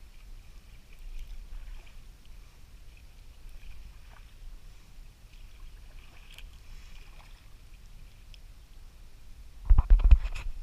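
Quiet sea kayak paddling on calm water: faint drips and small splashes over a low rumble. Near the end comes a quick burst of loud knocks and bumps.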